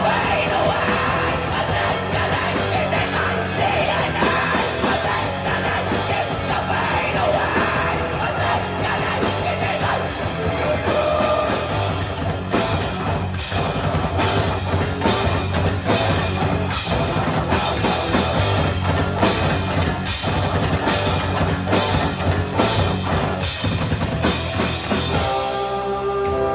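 Live rock band playing loud and hard, with driving drums, distorted guitars and shouted vocals. About 25 seconds in the drums drop out, leaving a few held, ringing notes.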